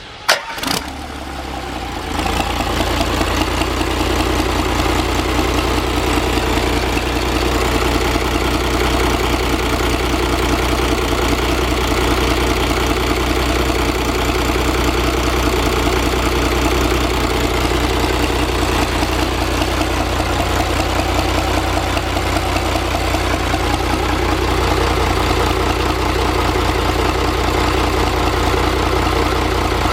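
Komatsu 6M95A-1 six-cylinder marine diesel engine being started. A sharp clatter comes in the first second, then the engine comes up to speed and runs steadily at idle with a rapid, even diesel knock.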